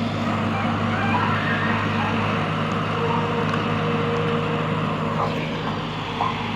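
Excavator's diesel engine running at a steady speed, a constant low drone that does not rise or fall.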